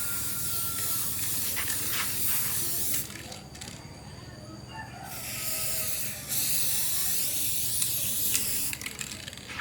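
A spraying hiss that stops about three seconds in, returns about two seconds later, and cuts off near the end.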